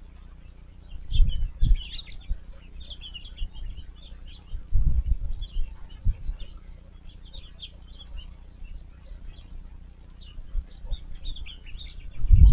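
Black-headed grosbeak singing, a long run of quick, warbled phrases. A few low rumbles break in, the loudest about a second in and again around five seconds.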